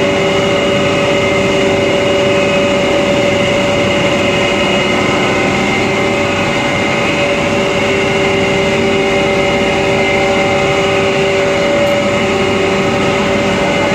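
Rice husk grinding machine running steadily: a loud, even mechanical drone with several held whining tones.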